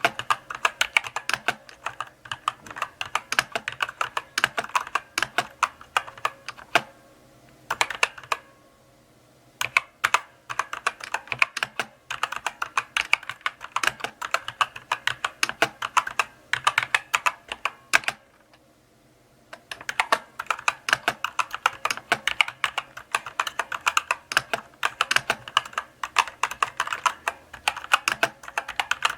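Mechanical keyboard being typed on at an unhurried pace: runs of crisp key clicks and clacks, broken by short pauses about a third of the way in and again just past the middle.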